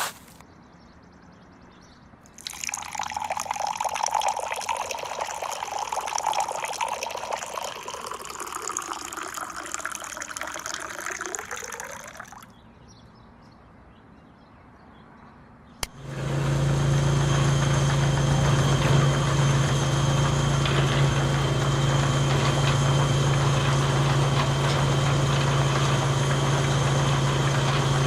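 Water pouring for about ten seconds, its pitch sliding down and back up. After a short pause and a click, a small motor starts and runs with a steady hum.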